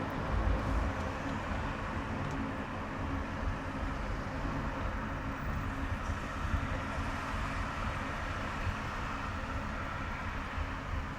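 A car driving on a highway: steady road noise of tyres and engine with a low rumble.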